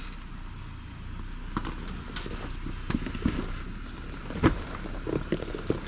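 Jeep Gladiator creeping over a rough trail: a low steady engine and road rumble with irregular knocks and clunks, the loudest about four and a half seconds in.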